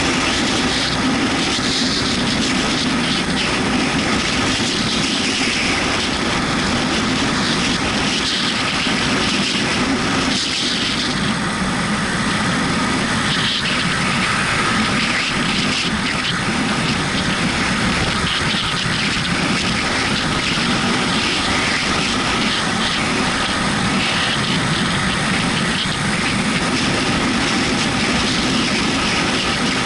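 Yamaha MT-125's single-cylinder four-stroke engine running steadily while the motorcycle is ridden, under a constant rush of wind and wet-road noise.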